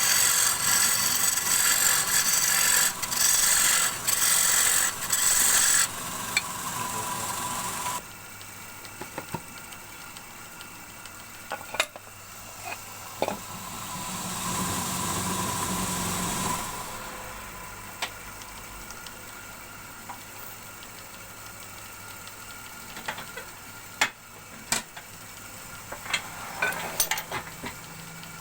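A wood lathe running while a turning tool cuts into a spinning wooden bowl blank, giving a loud hiss of shavings in repeated bursts for about six seconds. After that the lathe's motor hums steadily, with a swell of noise partway through and scattered sharp clicks and taps.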